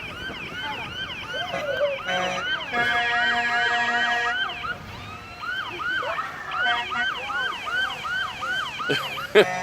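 Emergency-vehicle electronic siren on a fast yelp, repeating rising sweeps about three times a second, with a steady horn blast held for a second or so about three seconds in.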